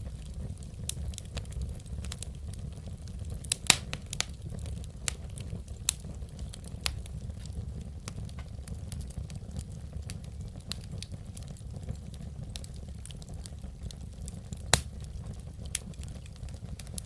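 Wood fire burning in a fireplace: a steady low rumble with irregular crackles and pops, the loudest pops about 4 seconds in and near the end.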